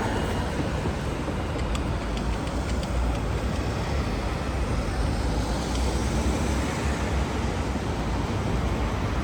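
Steady city street traffic noise, a dense low rumble of passing vehicles.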